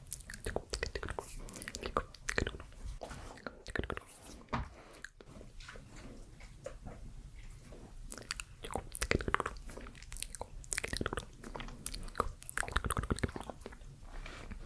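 Close-up ASMR mouth sounds: quick, irregular clicks and smacks made right at the microphone, quieter for a few seconds in the middle.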